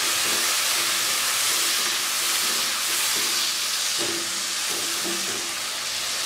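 Onion, tomato and ginger-garlic masala paste with ground spices, hissing and sizzling steadily in hot oil in a pan just after water has been added, while a spatula stirs it.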